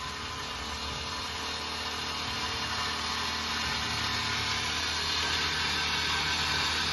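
MEP Shark 512SXI metal-cutting bandsaw running: a steady machine hum under a hiss that grows gradually louder.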